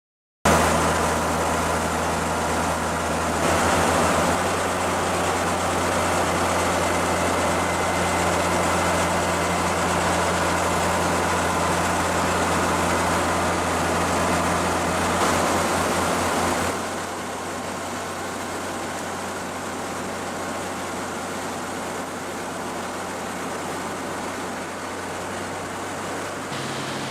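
Helicopter engine and rotor running steadily: a low hum with a hiss over it. The sound shifts suddenly a few times and drops in level about two-thirds of the way through, as happens at cuts between shots.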